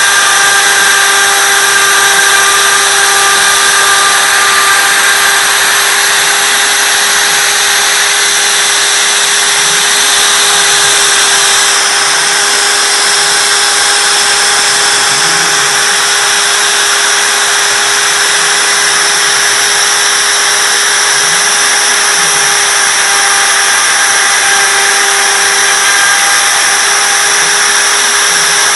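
A wood-carving CNC router's spindle running with a steady high whine while its bit mills a relief into wood, with cutting hiss. A fainter lower whir rises and falls every couple of seconds.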